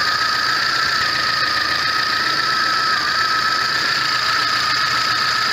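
VAZ-21099's four-cylinder engine idling steadily with a constant high whine over the engine noise. The engine now runs evenly, without misfiring, after a burnt valve and the head gasket were replaced.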